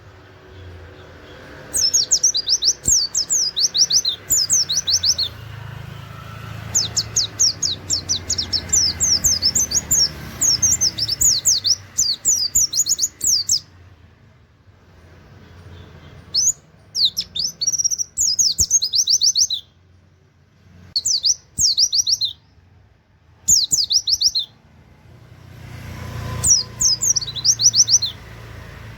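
A white-eye (pleci) singing in rapid-fire bouts of sharp, high downward-swept notes, canary-like "wit wit" phrases, many notes a second. There are six bursts, the longest about seven seconds, separated by short pauses.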